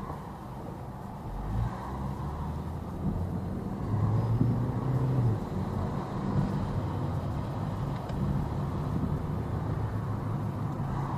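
Car engine and road noise heard from inside a moving car, a steady low drone that swells about four seconds in.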